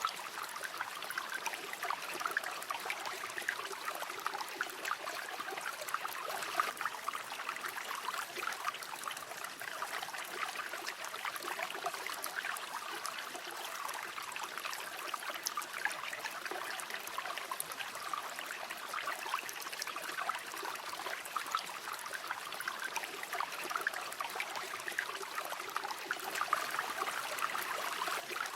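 River water flowing steadily over stones, a continuous babbling and trickling with fine splashes and no pauses.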